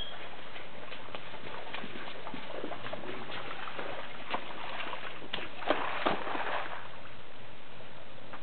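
Splashing and sloshing in shallow standing water, with scattered sharp splashes over a steady hiss, the busiest stretch a little past the middle.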